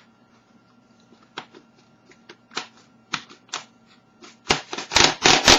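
Oversized YJ Crazy Foot 3x3 puzzle cube being turned by hand: a few separate plastic clicks, then a fast, loud run of clacking turns near the end. The cube is straight out of the box and not yet lubed.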